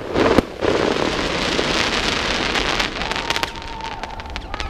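Fireworks crackling: a dense, rain-like hiss of many small pops that thins out about three seconds in.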